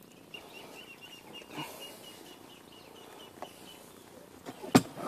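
A faint, rapid run of high chirps from a bird, about six a second, stopping just before four seconds in. A sharp knock follows near the end.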